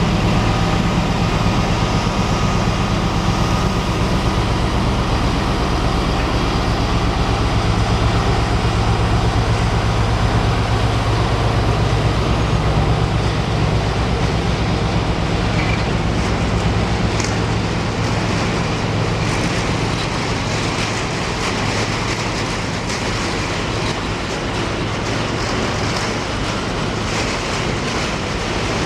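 A diesel train's engine running with a steady low drone for the first two-thirds, then giving way to a rushing noise of wheels on the track with many short clicks.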